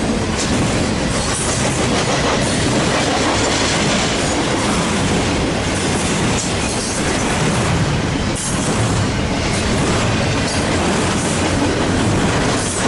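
Freight cars of a long double-stack container train rolling past at close range: a steady, loud rumble of steel wheels on rail with clickety-clack over the rail joints.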